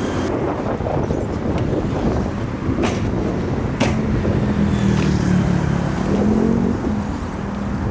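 Road traffic: vehicle engines running, with one engine tone holding steady for a few seconds in the middle, and two sharp clicks about three and four seconds in.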